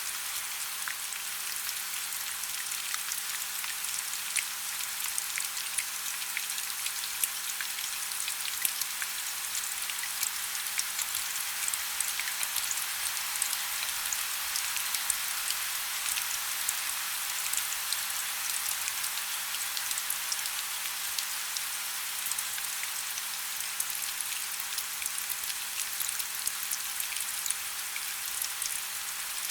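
Steady rain falling, a dense hiss of many small drop patters, light and crackly with little low rumble.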